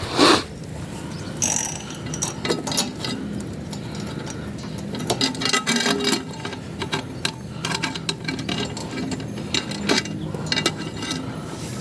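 Irregular metallic clicking and clattering over the low, steady running of the V-twin mini bike's engine, with one loud knock right at the start.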